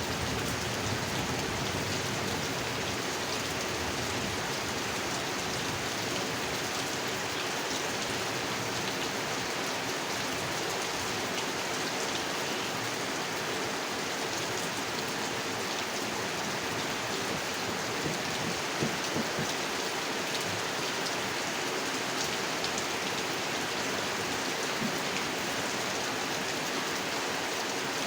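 Steady rain falling onto a pond, a dense even patter with occasional louder drops.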